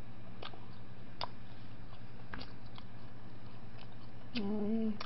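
A person chewing a mouthful of pizza, with faint wet mouth clicks over a steady low hum, then a short hummed "mm" near the end.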